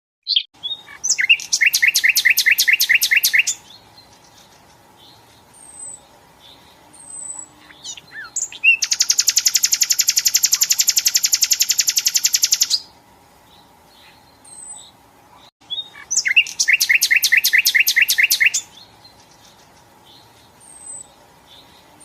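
Songbird song from a cage-bird song compilation: three loud, rapid trills, one near the start, a faster and buzzier one in the middle, and a third near the end, with scattered short chirps between them. A faint steady hum runs underneath.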